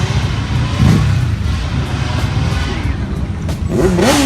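A vehicle engine revved in quick blips near the end, pitch shooting up and dropping back, over a steady low engine rumble and background music.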